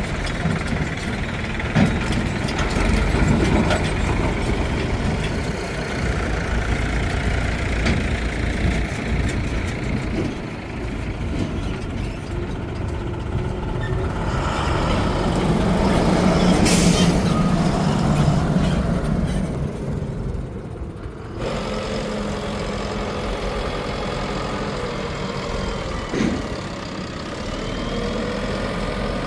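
Heavy diesel engines of a backhoe loader and tractors running, getting louder and deeper about halfway through as one works harder. A short hiss comes about two-thirds of the way in, and the sound changes abruptly soon after.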